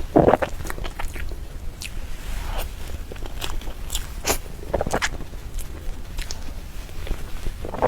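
Close-miked eating sounds of soft cream cake being chewed: short wet mouth clicks and smacks at irregular intervals.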